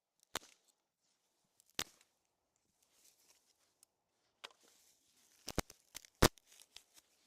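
Small dry twigs being broken and handled for kindling: a handful of sharp snaps over a faint rustle, several coming close together near the end.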